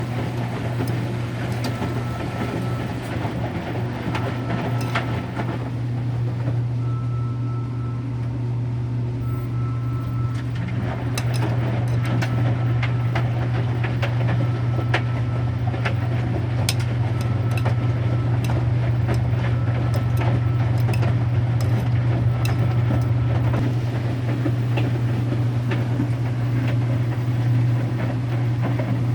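Electrolux Wascator W355H washer-extractor tumbling its load in the first rinse: a steady motor hum with scattered clicks and knocks from the drum. A short high tone repeats about every second and a half through most of the stretch.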